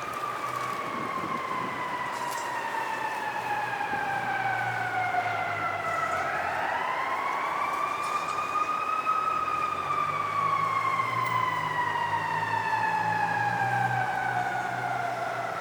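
Emergency vehicle siren wailing in slow sweeps: the pitch climbs quickly, then falls slowly over several seconds, climbing again about six seconds in and once more at the end. A low rumble runs underneath, stronger in the second half.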